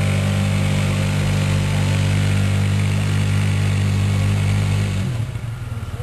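Pulling vehicle's engine running steadily at high revs under load, then dropping sharply about five seconds in to a lower, pulsing idle.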